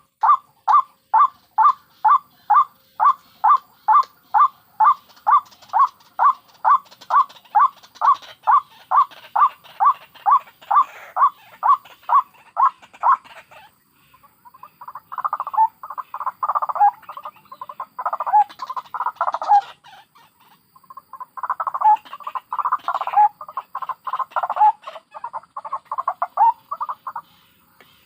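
White-breasted waterhens calling: a steady run of loud repeated notes, nearly three a second, for about the first half, then after a short break, bursts of overlapping, jumbled calls.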